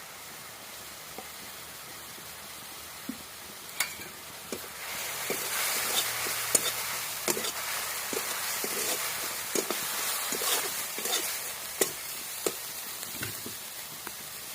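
Food sizzling in hot oil in a pan while being stirred, with a spatula clicking and knocking against the pan. The sizzling gets louder about five seconds in.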